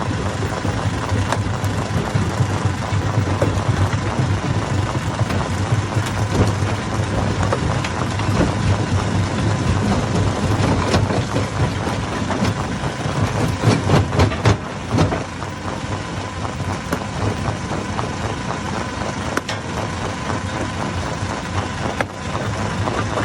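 Hammer stone crusher running with a steady low engine drone, rocks knocking and cracking irregularly inside it as they are broken. About thirteen seconds in comes a louder run of knocks.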